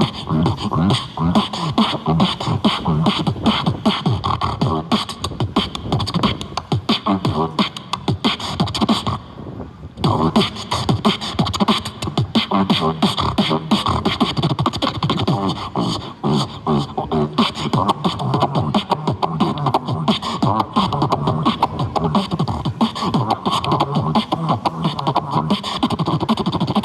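Beatboxing: a fast, unbroken run of vocal percussion, with mouth-made kicks, snares and clicks, and one short break about nine seconds in.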